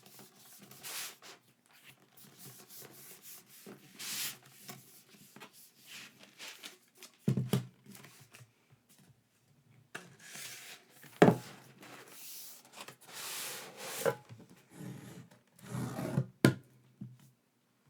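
Paper and cardboard packaging being handled during an unboxing: irregular rubbing and sliding, with three sharp knocks, the loudest about halfway through.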